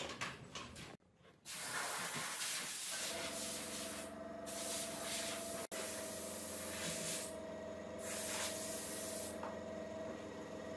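A power tool running steadily, its motor hum under a hissing, rasping noise that swells and falls away a few times.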